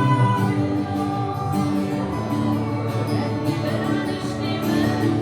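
Live worship band playing a slow song with sustained chords and singing.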